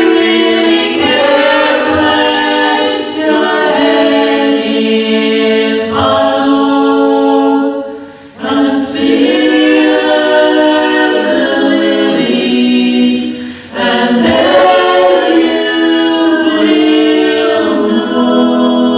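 A group of voices singing a gospel hymn together in harmony, in sustained phrases with two brief breaks between them.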